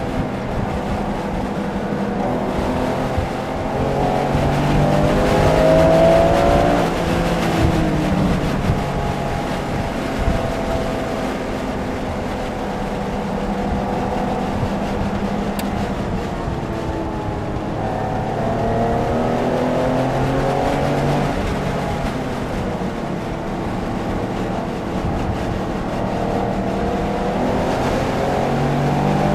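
Porsche engine driven hard on a race track, heard from on board: its note climbs under acceleration, drops back at shifts and braking, then climbs again several times, over a steady wash of road and wind noise.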